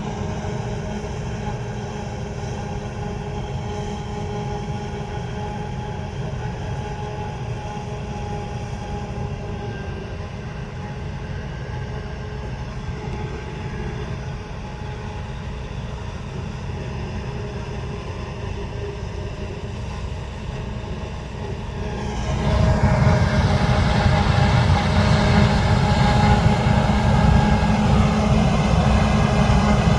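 Heavy harvest machinery running steadily: diesel engines with a low rumble and several held tones over a mechanical whir. About two-thirds of the way through it gets clearly louder, as a machine comes nearer.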